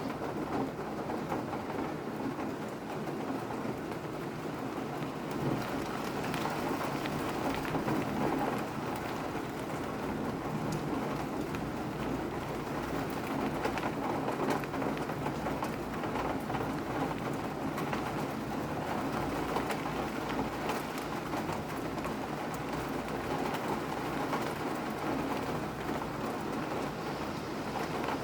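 Steady rain falling: an even hiss with many small drop ticks over a low rumble.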